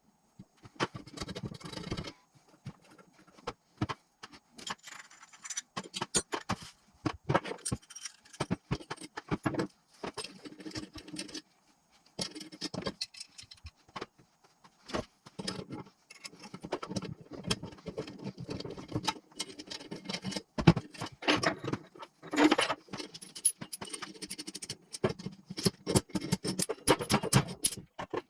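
Metal engine parts and hand tools clinking, knocking and scraping in irregular bursts, with short silent gaps between them.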